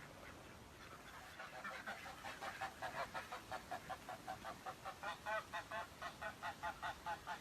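Domestic ducks quacking in a quick run of short calls, about four a second, starting faint and growing louder from about two seconds in.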